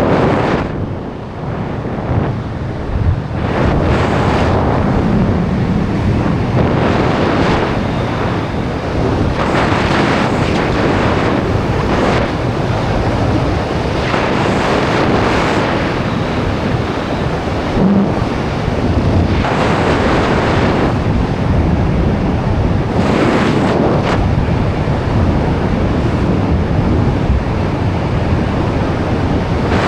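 Rushing air blasting the microphone of a skydiver's camera: a loud, continuous roar that swells and eases every few seconds.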